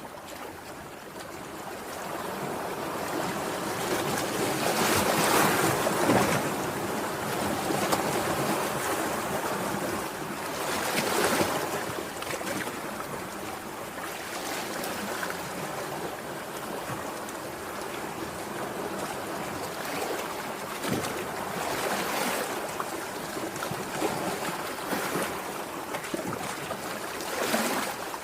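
Sea waves breaking and washing on the shore, a steady rushing that swells and eases as each wave comes in. The biggest surge comes about five seconds in, another near eleven seconds, and smaller ones later.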